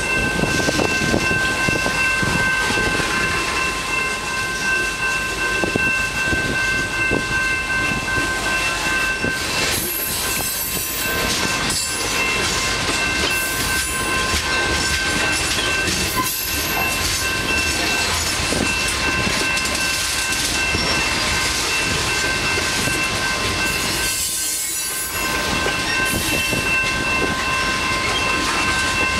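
A train rolling past on the rails, its wheels clattering steadily, with several thin high-pitched tones held throughout.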